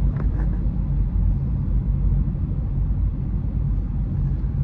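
Steady low rumble of a motor vehicle running, engine and road noise.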